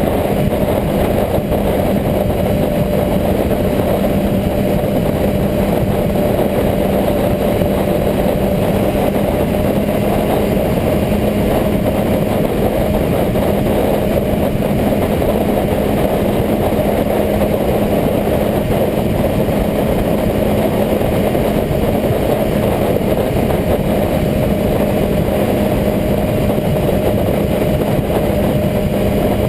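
Motorcycle engine running at a steady speed, its hum holding one pitch throughout, over a constant rushing noise.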